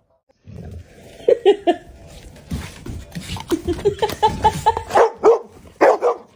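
Dog barking in a rapid run of short barks and yips, starting about a second in.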